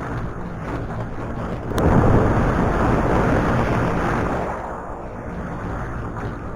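Motorcycle engine running steadily under way, with wind noise on the microphone. About two seconds in, a louder rush of noise swells up suddenly and dies back a couple of seconds later.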